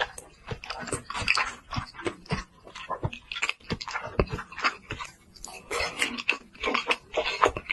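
Close-miked chewing and biting of food: a steady run of short, wet mouth clicks and smacks.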